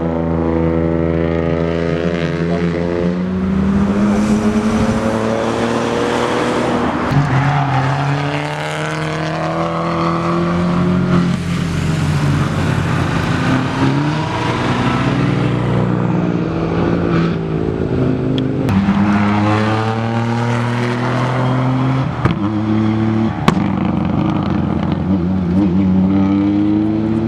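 Rally car engines revving hard under acceleration, the pitch climbing and then dropping several times as gears change. A few sharp cracks stand out in the second half.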